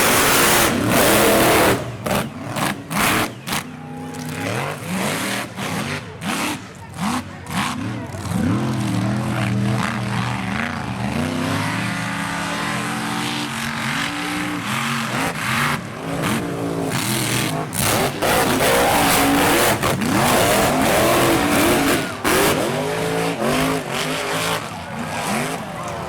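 Mega truck engine revving hard, its pitch rising and falling over and over, with the sound cutting in and out sharply for several seconds near the start.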